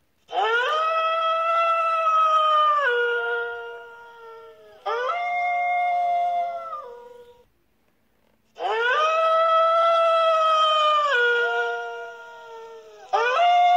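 Wolf howling: four long howls in two matching pairs. The first of each pair swoops up, holds and then drops to a lower pitch.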